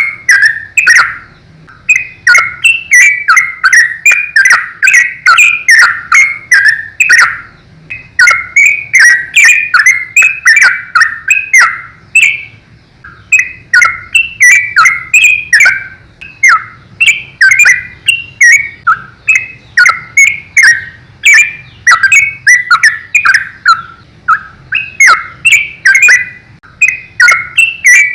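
Sooty-headed bulbul (trucukan) singing loudly in rapid-fire phrases of bubbly, whistled notes, about three or four notes a second, broken by short pauses.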